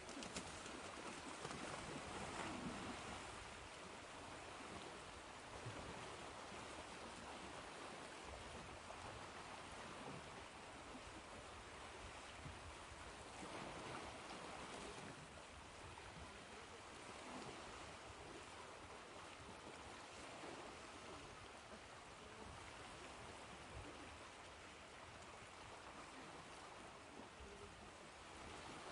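Ocean waves washing on a shore: a soft, continuous rush of surf that swells gently a few times, around two seconds in, in the middle and near the end.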